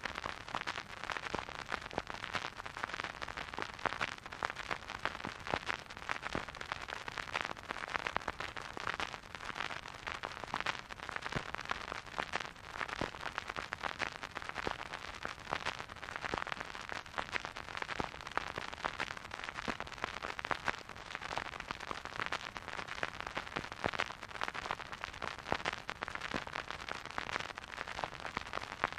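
Record player stylus surface noise: a steady hiss densely sprinkled with small crackles and pops, with no music playing.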